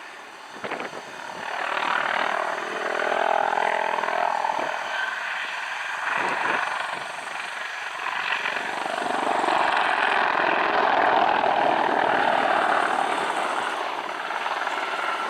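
Mil Mi-28NM twin-turboshaft attack helicopter flying a display, its engines and rotor rising and falling in loudness as it manoeuvres.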